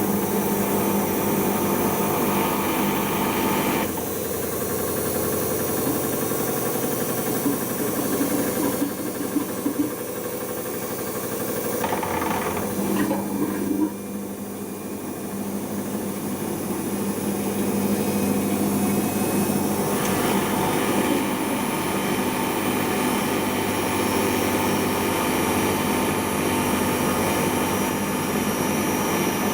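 Siemens iQ washing machine on its intermediate spin: the drum spinning at speed with a steady motor whine and hum. The sound shifts several times, dipping about halfway through and building back up after about twenty seconds.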